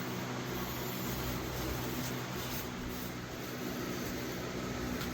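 Steady electric motor hum with an even hiss, holding at one level throughout.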